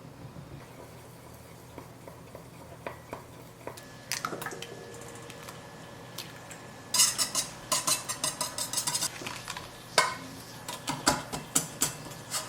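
Kitchen utensil stirring against a dish. Scattered clinks give way to a quick run of rapid strokes from about seven to nine seconds in, then more clinks near the end.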